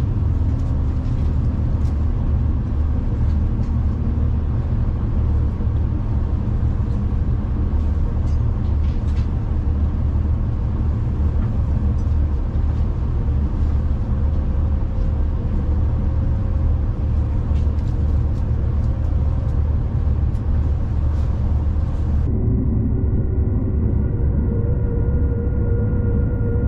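Steady low rumble of a moving passenger train, with scattered faint clicks. Near the end the sound abruptly turns duller, losing its higher part.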